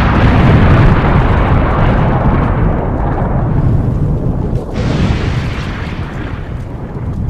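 Loud, continuous rumbling noise, heaviest in the deep low end, with a fresh surge a little under five seconds in.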